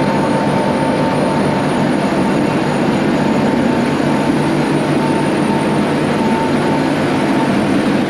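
Ship's machinery running: a loud, steady mechanical drone with a constant whine over it.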